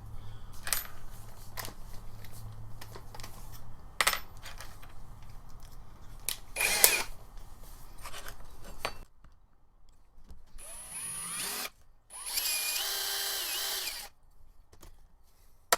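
Power drill running in two short bursts, spinning up in the first, drilling a hole through a string-trimmer attachment's gear housing for a grease fitting. Before it come scattered clicks and knocks of small metal parts being handled.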